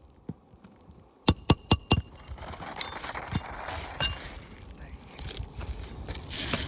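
Four quick, ringing metal-on-metal strikes of a hammer on a roofing nail during a shingle repair, then softer scraping and rustling of the asphalt shingles with a few lighter taps.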